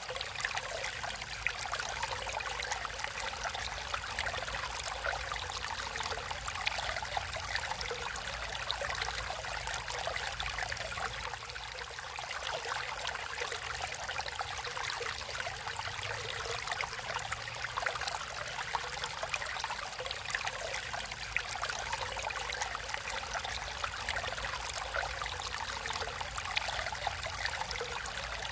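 Natural stream of water flowing and trickling, a steady splashing hiss.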